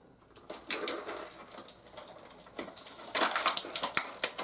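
Plastic toy packaging being handled: scattered clicks and crinkling as accessories are pulled from a plastic tray, growing into a dense burst of crinkling about three seconds in.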